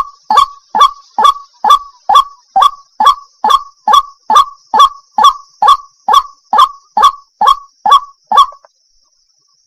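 Water hen calling: a rapid, evenly paced series of short calls, about two a second, that stops about a second before the end.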